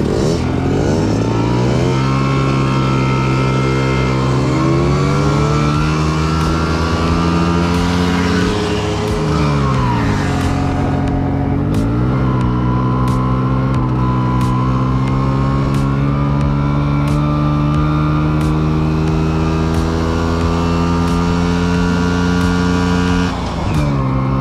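Small two-stroke moped engine running under way, its note holding and climbing with the revs; about ten seconds in the revs drop sharply and climb back up, then hold steady.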